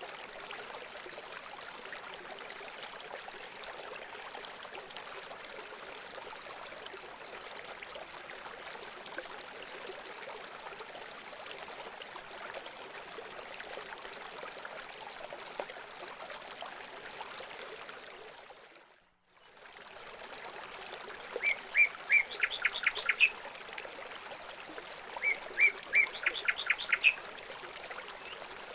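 Steady trickling of running water, which fades out briefly about two-thirds through and returns. Near the end a bird gives two quick series of short, sharp, repeated calls.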